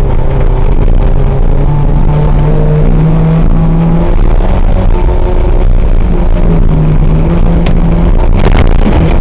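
Rally car engine pulling hard, its pitch climbing, dropping about four seconds in, then climbing again. There are a couple of sharp knocks near the end.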